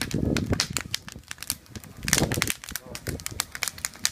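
Campfire crackling, with many sharp pops and snaps of burning firewood. Gusts of wind rumble on the microphone at the start and again about two seconds in.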